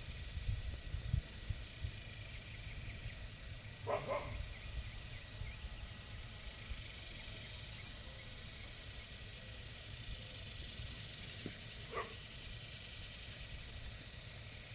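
Two short animal calls, the first about four seconds in and a shorter one near the end, over a steady low rumble.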